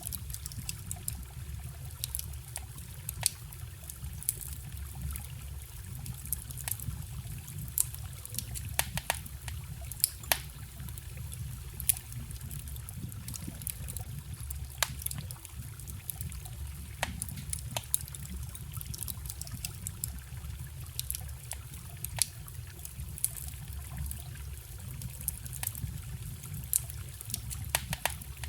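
Wood campfire crackling, with irregular sharp pops and snaps over the steady sound of a flowing forest stream.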